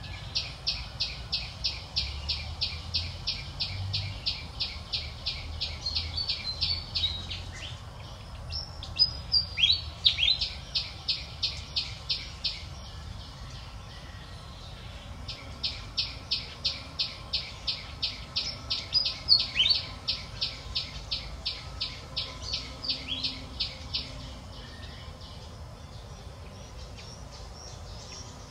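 A bird calling in long runs of rapid, high chirps, about four to five a second, with a few sliding notes mixed in. There is a short break in the middle, and the calling stops a few seconds before the end.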